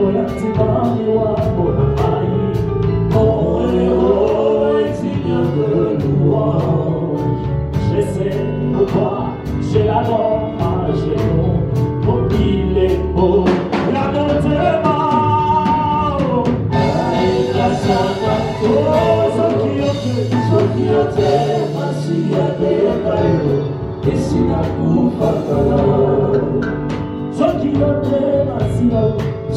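Gospel worship music: several voices singing over a band, with a steady beat.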